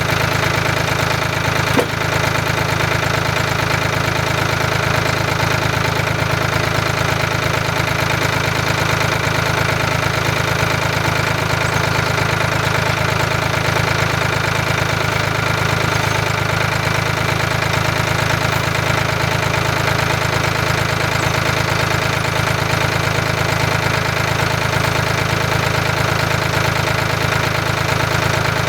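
An engine running steadily at one constant speed, with a single brief knock about two seconds in.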